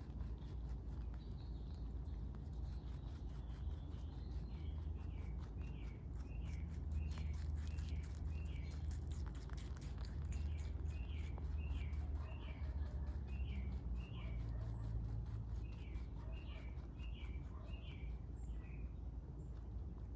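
A bird singing a long series of short, repeated chirps, about two a second, over a steady low rumble. Faint rapid clicking runs through the middle.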